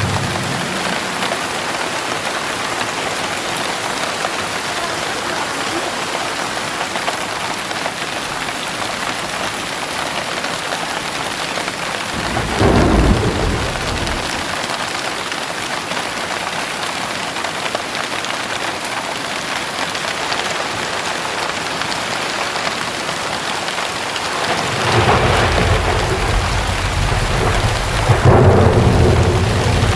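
Heavy rain falling steadily, with a short roll of thunder about halfway through and a longer, louder roll of thunder starting near the end.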